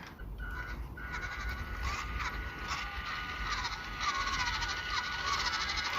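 Electric motor and 2-speed gearbox of a 1/16-scale RC trail truck whining steadily as the truck crawls in first gear, the pitch wavering slightly under load and the level slowly rising.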